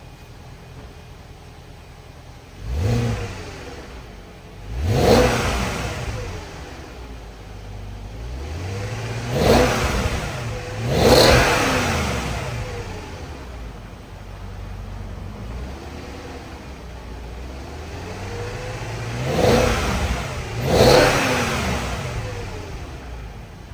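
2003 Range Rover HSE exhaust at a warming-up idle, blipped in three pairs of quick revs, each rising and falling back to idle. The engine is still coming up to temperature after a cold start.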